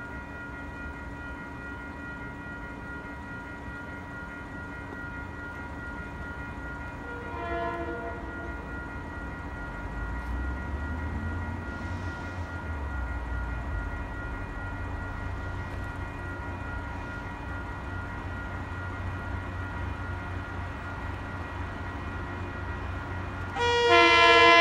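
Approaching Metro-North diesel push-pull train, a Shoreliner II cab car leading with a BL20GH locomotive pushing. Its horn sounds faintly and briefly about seven seconds in, a low rumble builds as the train nears, and the horn blows loud near the end as the headlight comes into view.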